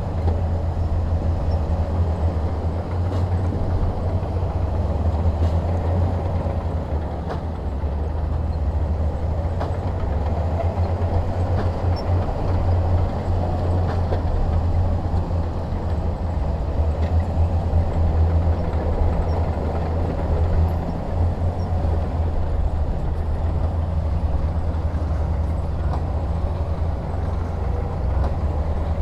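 Heavy diesel earthmoving machinery running steadily, a low rumble with a few faint clicks over it.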